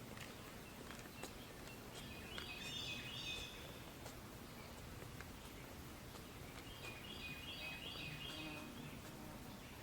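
A songbird singing two short phrases of rapid repeated notes, one about two seconds in and one near the end, faint over a steady outdoor background hiss.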